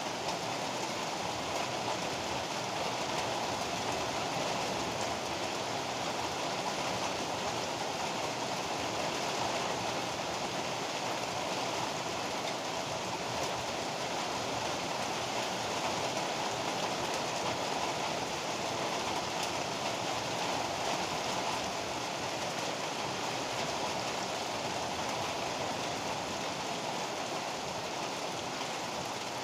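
Heavy rain pouring steadily, an even, unbroken hiss with no thunderclaps.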